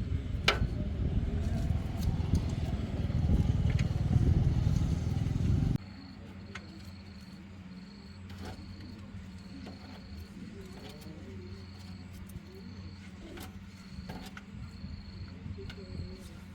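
A loud low rumble that swells and then cuts off abruptly about six seconds in. Then a steady low hum, with an insect chirping in a regular pulse and a few scattered clicks.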